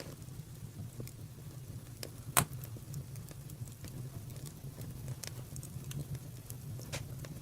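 Fire crackling, with scattered pops over a steady low rumble and one sharp, louder pop about two and a half seconds in.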